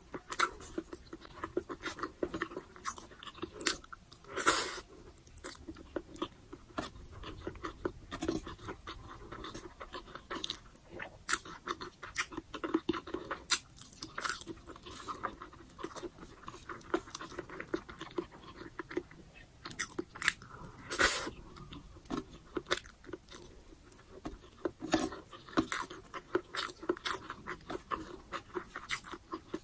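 Mouth sounds of a person chewing braised pork humba and rice eaten by hand: a steady run of wet smacks and clicks. Two louder, crunchier bursts come about four and a half seconds in and again about twenty-one seconds in.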